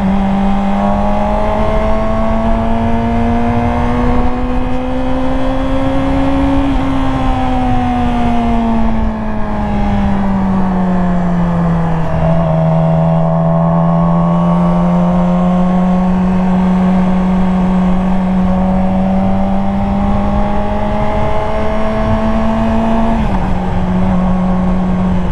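Yamaha R6's inline-four engine running under way, its pitch climbing slowly for several seconds, then falling as the bike slows, then holding fairly steady over the rush of wind. Near the end the pitch drops suddenly, as at a gear change.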